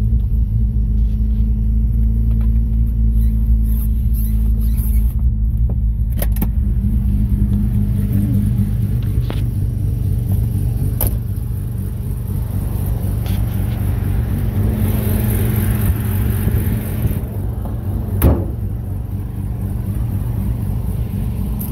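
Mazda RX-7's rebuilt 12A two-rotor rotary engine idling steadily, with a few sharp clicks and knocks, the loudest near the end.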